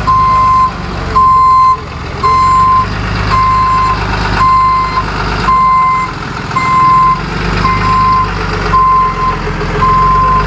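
Tow truck's reversing alarm beeping steadily about once a second as the truck backs up, with its engine running underneath.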